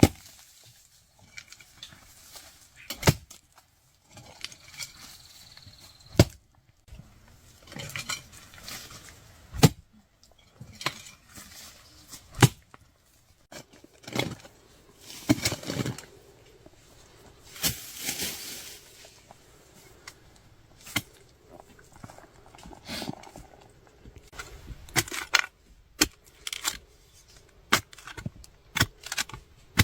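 Irregular sharp strikes of a digging tool into wood and earth, a second or a few seconds apart, with scraping and rustling between the blows.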